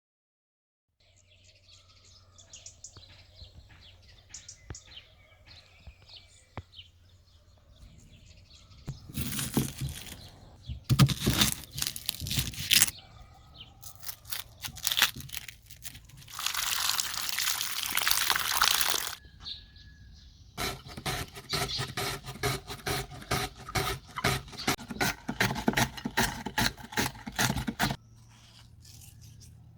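Kitchen food-preparation sounds: scattered knocks and handling, then a few seconds of steady rushing noise, then a fast, even run of strikes, about four a second, for several seconds.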